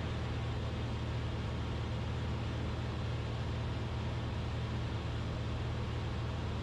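Cessna 172RG Cutlass in cruise flight: the steady drone of its engine and propeller, a low hum with an even hiss of airflow over it.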